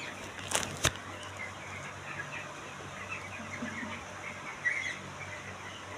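A flock of chickens calling, with many short chirps overlapping throughout and a louder burst of calls a little before five seconds in. Two sharp clicks sound in the first second, over a steady low hum.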